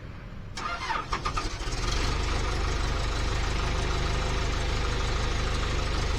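Skid steer engine cranked over about half a second in, catching after about a second, then running at a steady idle.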